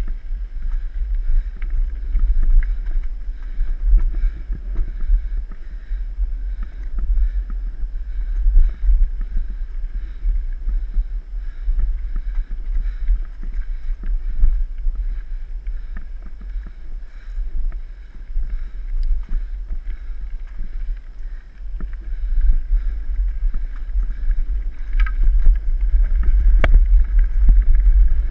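Mountain bike riding over a dirt trail: wind rumbles on the microphone, with many small knocks and rattles from the bike over rough ground, and one sharper knock near the end.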